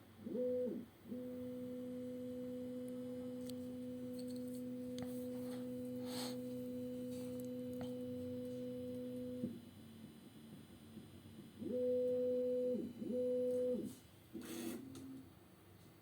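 A1 3D printer's motors sounding a steady low hum at one pitch during vibration-compensation calibration. The hum holds for about eight seconds and cuts off sharply, then comes back as two shorter hums of about a second each, followed by a few clicks near the end. The vibration noise is louder than the owner considers normal.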